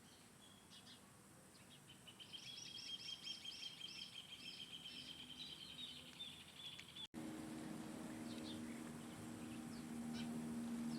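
A songbird sings a long, rapid trill of repeated high notes for about five seconds. The song breaks off suddenly at a cut, after which a steady low hum runs with a few faint chirps.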